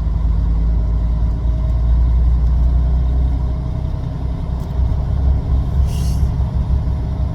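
Semi truck's diesel engine running with a steady low rumble, and a short hiss about six seconds in.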